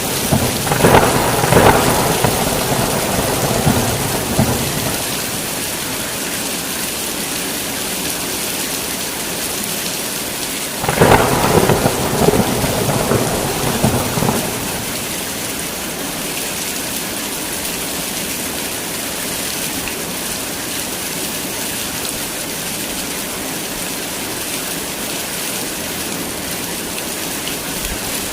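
Heavy rain falling steadily in a thunderstorm, with thunder rumbling twice: once over the first few seconds and again, starting with a sharp crack, about eleven seconds in.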